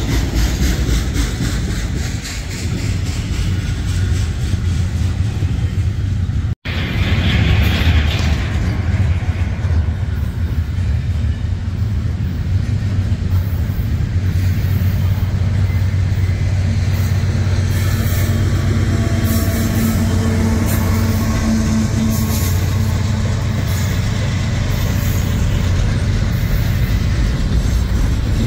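Double-stack intermodal freight train rolling past at close range: a steady heavy rumble of steel wheels on the rails with repeated clacks from the passing cars. The sound cuts out for an instant about six and a half seconds in.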